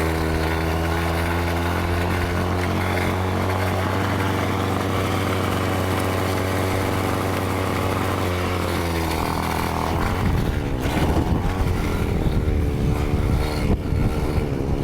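Small 30cc Sachs two-stroke engine of a motorised bicycle running at steady revs. About nine seconds in its steady note falls away and the sound turns rough and uneven.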